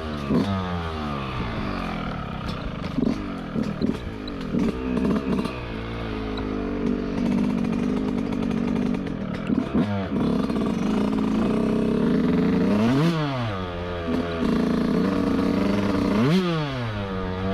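Yamaha YZ125 125cc two-stroke single-cylinder dirt bike engine being ridden on a trail. Its pitch rises and falls with quick throttle blips at first, holds steadier through the middle, then twice drops sharply and climbs back near the end.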